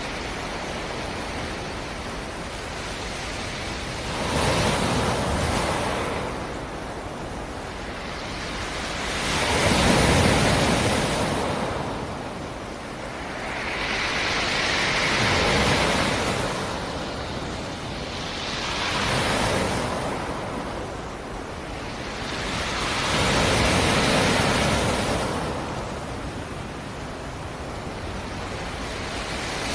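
Black Sea surf: waves breaking and washing in about every five seconds, five swells of sound rising and falling over a steady hiss of water.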